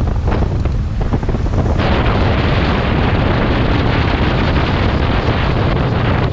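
Heavy wind buffeting the microphone aboard a Regal motorboat under way, over the steady low rumble of the boat and water rushing past; the wind grows harsher about two seconds in.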